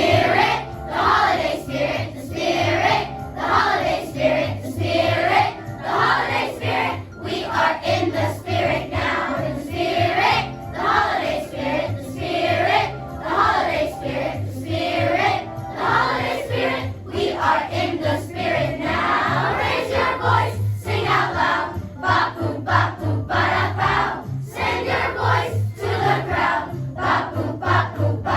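A school choir singing with instrumental accompaniment underneath.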